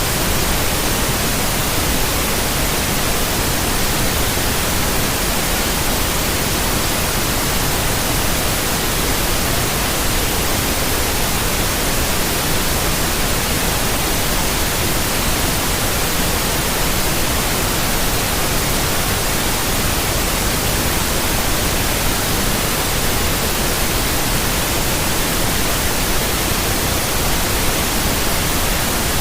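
Synthetic white noise: a steady, even hiss across the whole range of pitch, unchanging throughout.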